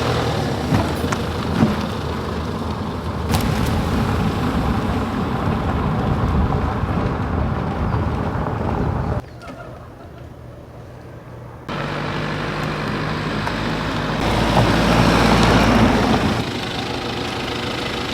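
Car driving: steady engine and road noise. It drops to a quieter stretch for a couple of seconds past the middle, then resumes.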